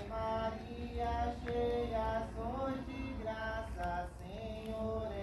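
Voices singing a slow, chant-like religious hymn in a series of held notes, with a low rumble underneath.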